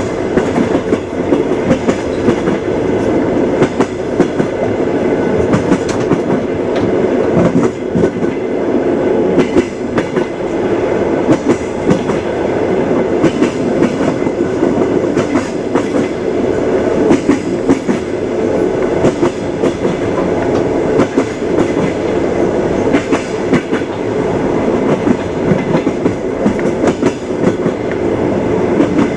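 Moving train's wheels clattering on the rails: a steady rumble broken by frequent sharp clicks and knocks.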